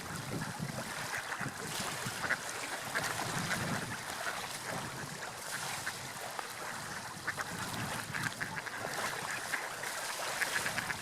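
Seagulls calling, many short calls one after another, over a steady wash of sea waves and wind.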